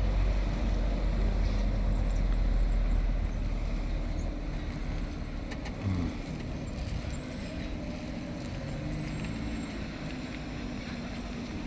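Fire engine's motor running, loudest for the first three seconds with a heavy low rumble, then settling to a quieter, steady run.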